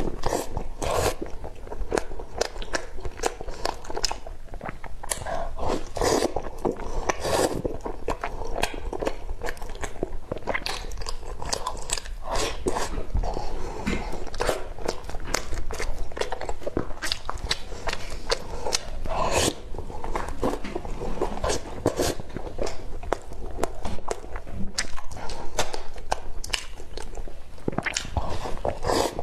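Close-miked eating: continual chewing and biting, with many short, sharp mouth clicks.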